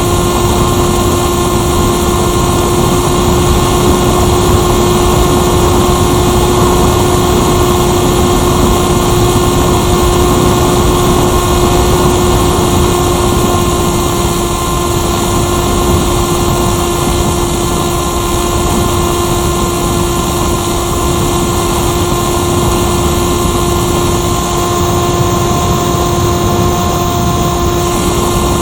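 Electric motor and propeller of a Firstar 2000 RC motor glider running at a steady speed, a constant whine heard from on board the plane over loud rushing air noise.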